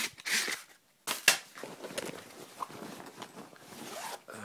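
Gear being handled: a run of clicks and knocks with rustling, the loudest a sharp knock a little over a second in, as the small saw is put away and the next tool is picked up.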